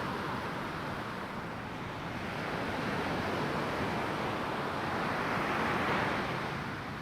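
Ocean surf washing up on a sandy beach: a steady wash of breaking waves that swells to a peak about six seconds in, then eases.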